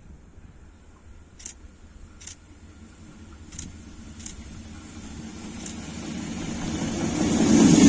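DB Cargo Romania freight train, hauled by locomotive 47-2007-0, approaching: a rumble that grows steadily louder from about halfway through and is loud by the end. A few faint sharp clicks come in the first half.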